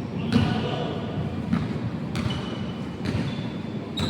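A basketball bouncing on a court, about five sharp thuds at an uneven pace, with short high squeaks and the echo of a large hall.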